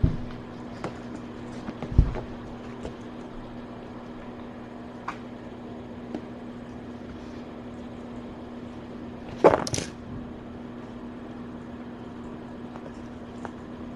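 Steady electrical hum of a small room with scattered faint clicks and knocks. Two low thumps come in the first two seconds, and a brief loud noisy scuffle, the loudest sound, comes about nine and a half seconds in.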